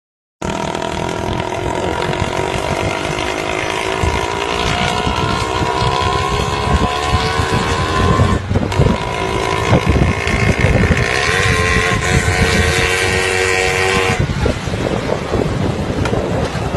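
An engine running with a steady pitched hum that rises slowly, over rough noise, and shifts abruptly about 8 and 14 seconds in.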